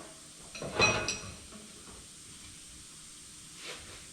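Metal objects being set down on a shop workbench: a few sharp metallic clinks with a brief ringing tone about a second in, then only a steady faint hiss.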